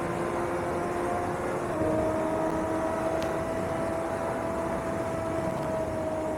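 Suzuki GSX-R600's inline-four with an aftermarket CS Racing exhaust, running steadily under way. Its note steps down about two seconds in and then holds at an even pitch, over rushing wind noise.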